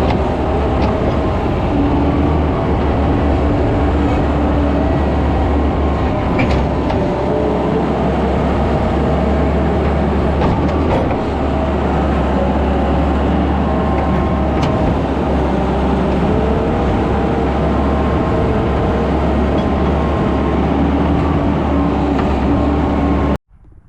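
Skid steer engine running steadily under load, cutting off abruptly near the end.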